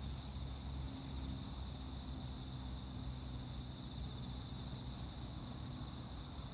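Steady chorus of insects singing in late summer, a continuous high-pitched trilling that never breaks, over a low steady rumble.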